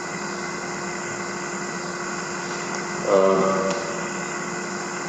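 Steady background hiss with a faint constant hum tone, the noise floor of the lecture recording during a pause in speech. A brief vocalised sound from the lecturer comes about three seconds in.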